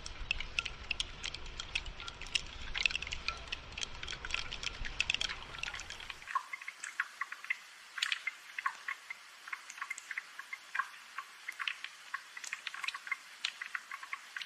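Rain falling as a dense, irregular patter of drips and drops. A low rumble lies under it for about the first six seconds and then cuts off abruptly.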